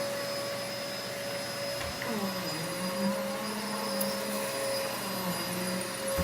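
Vacuum cleaner running: a steady motor whine over the rush of suction, with a lower hum that wavers up and down in pitch from about two seconds in.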